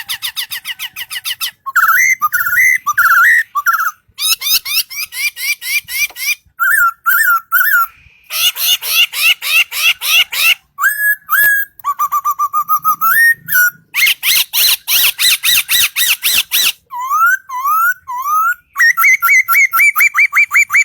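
A songbird singing loudly and close by, a varied song of fast trills and slurred whistled notes. Each phrase repeats one note several times before the bird switches to a new pattern, with brief pauses between phrases.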